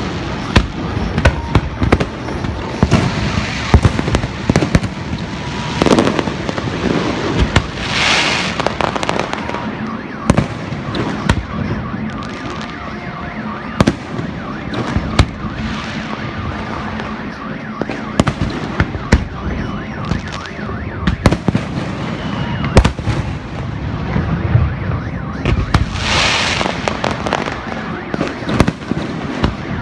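Aerial firework shells bursting overhead: an irregular run of sharp bangs and crackles, with a brighter hissing crackle about 8 seconds in and again near the end.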